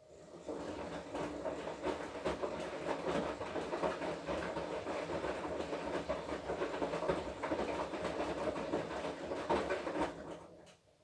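Washing machine drum turning through a wash cycle, the wet laundry and water tumbling and rattling inside. It starts about half a second in, runs for about ten seconds, then stops, as the drum pauses between turns.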